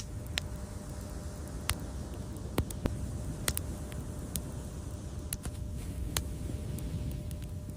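Wood fire crackling: irregular sharp pops and snaps over a low, steady rumble of burning flames.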